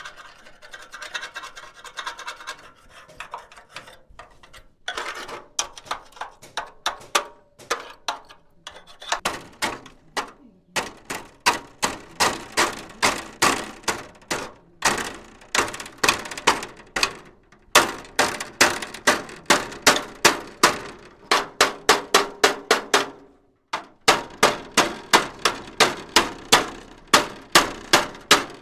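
A scraping rasp for the first few seconds, then a hammer striking metal over and over, about three blows a second, in runs broken by short pauses.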